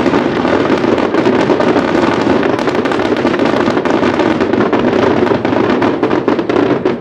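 Aerial fireworks bursting close by in a continuous barrage: dense rapid crackling and popping over a steady heavy rumble of shell bursts.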